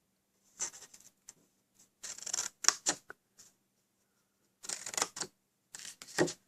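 Card stock being handled and snipped with scissors: crisp rustles and sharp snips in four short bursts.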